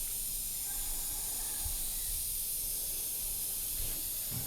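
Steady high-pitched hiss with no other distinct sound.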